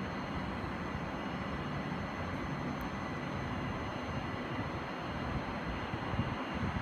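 Steady low rumble and hiss of railway platform background noise, with faint steady high tones and no distinct events.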